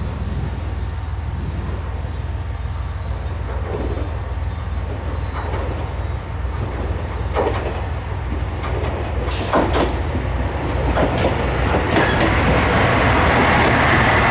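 Diesel train running on the rails with a steady low drone, its wheels clicking over rail joints several times in the second half. The running noise grows louder near the end as the train gathers speed.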